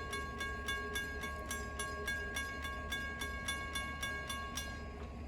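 Railroad grade-crossing warning bell ringing rapidly, about three or four strikes a second, then stopping shortly before the end. A low steady rumble runs underneath.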